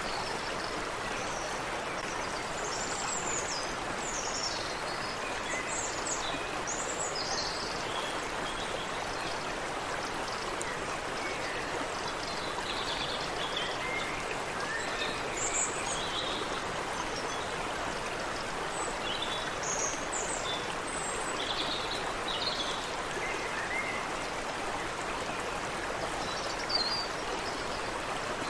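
A creek's running water as a steady rush, with many short bird chirps and calls scattered over it.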